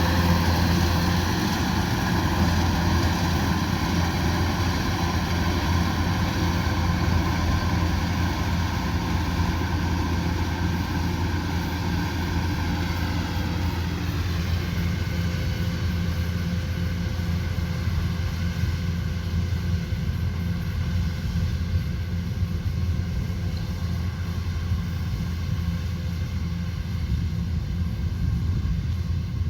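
Rice combine harvester running steadily: a deep engine drone with a hiss of machinery above it, the higher part growing quieter from about halfway through.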